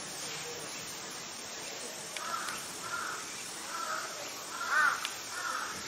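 A bird giving a series of about five short, harsh calls, starting about two seconds in at roughly one every two-thirds of a second, the fourth the loudest.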